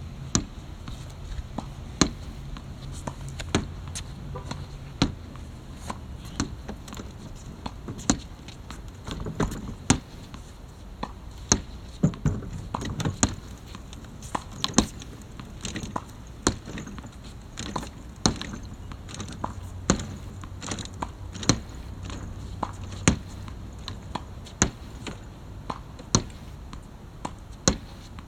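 Badminton racket striking shuttlecocks in repeated practice shots, a sharp hit about every second and a half.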